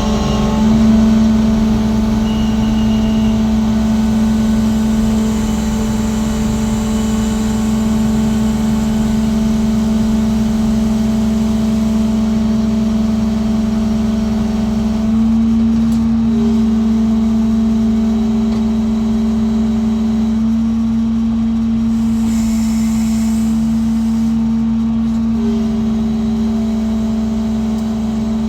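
Diesel engine of a 200-ton lattice boom crane running steadily under load, a continuous drone whose pitch shifts up and back down slightly a few times.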